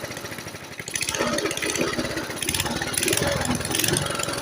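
1972 Briggs and Stratton lawn mower engine running unevenly on a freshly revived carburetor: it sags about a second in, then picks back up and runs louder.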